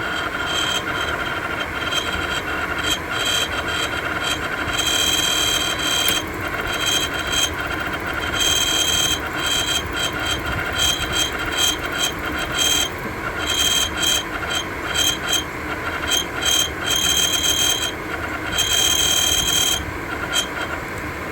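Atwood RV furnace blower motor running with a steady whir and a high-pitched squeal that comes and goes irregularly: the sign of a failing fan motor that needs replacing.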